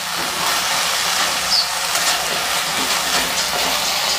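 Chicken and chopped carrot sizzling in a non-stick wok as a silicone spatula stirs them, with light scraping against the pan. It is a steady sizzle as the last of the cooking liquid dries off.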